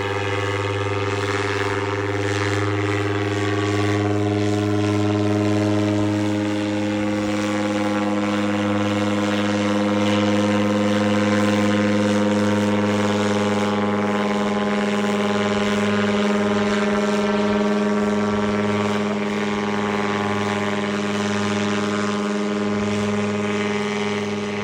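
Paramotor engine and propeller running steadily in flight, a constant droning hum whose pitch eases down slightly a few seconds in.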